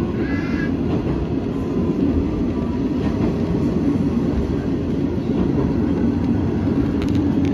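KRT 8000 series diesel railcar running, heard from inside the cab: a steady low rumble of the diesel engine and the wheels on the rails.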